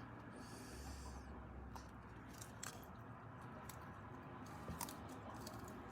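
Faint, sparse crunching clicks of a sulcata tortoise biting and chewing dandelion leaves, with a brief soft hiss about a second in.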